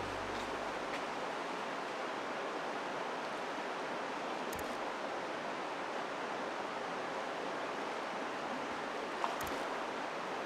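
A steady rushing noise like running water, with two faint clicks, one about four and a half seconds in and one near nine seconds.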